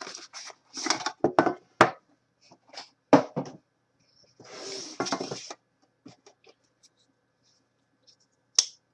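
Trading-card packaging being handled and opened: a series of sharp clicks and taps, with a short rustling scrape about five seconds in.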